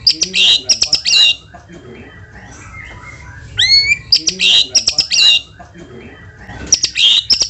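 White-rumped shama (murai batu) singing loud phrases three times: rising whistles followed by rapid, harsh chattering notes.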